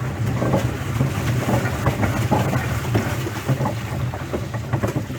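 Wind buffeting the microphone in a steady low rumble, with scattered light knocks from a small boat on the water.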